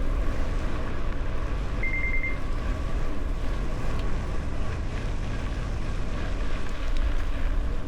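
Wind buffeting the microphone of a camera on a gravel bike while riding, a steady rumble with faint scattered ticks. A short high beep sounds about two seconds in.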